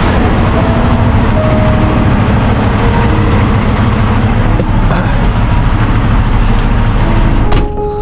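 Semi-truck driving, heard from inside the cab: a steady loud wash of diesel engine and road noise. The higher part of the noise drops away abruptly near the end.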